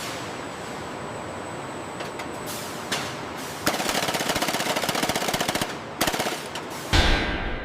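A pneumatic hammer rattling in rapid strokes over a steady machine noise: a few short bursts, then about two seconds of continuous hammering and one more short burst. Near the end comes a heavy bang with a low rumble that fades.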